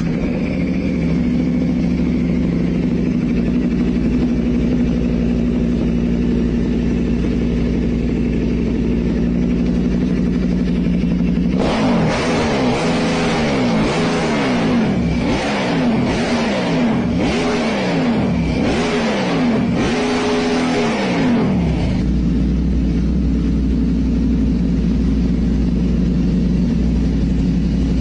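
Yamaha Raptor ATV with a 1300cc KTM V-twin engine idling steadily, then revved in a run of about nine quick blips, each rising and falling in pitch, before dropping back to a steady idle.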